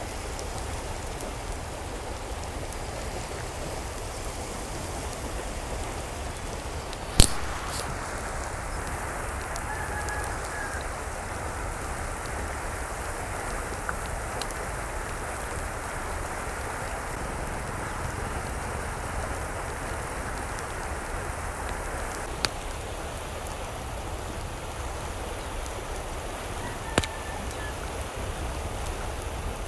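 Steady rush of a flowing stream, with a few sharp knocks, the loudest about seven seconds in. Two brief faint calls come through the water noise.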